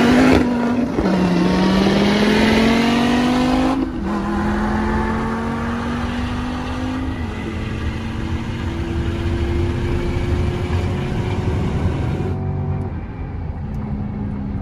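C8 Corvette's V8 at full throttle, heard from inside the cabin, its pitch climbing and dropping back with each quick upshift several times, then holding steady before easing off about twelve seconds in.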